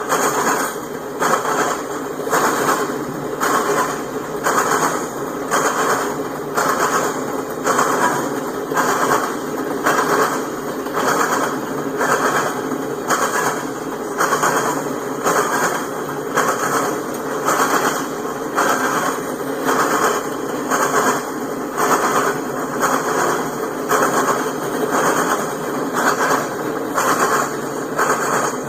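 Freight train hopper cars rolling past, their steel wheels clacking over rail joints in a steady, even rhythm of a little more than one clack a second.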